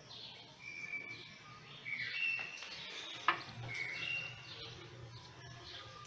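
Birds chirping in the background: scattered short, clear whistled notes. A single sharp click a little past halfway and a faint low hum lie beneath them.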